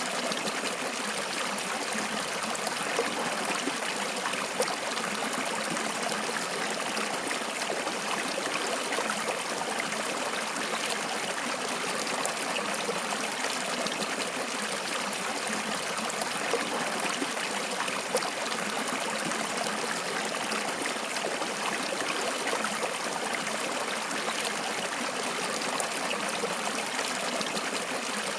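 Water flowing in a stream, a steady rushing and trickling with small splashes scattered through it.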